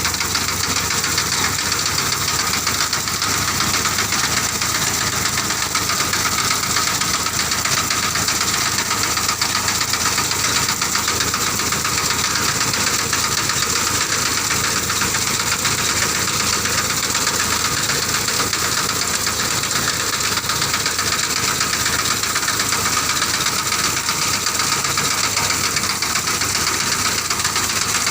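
Engine of a tractor working with a reaper, running steadily at an even speed throughout.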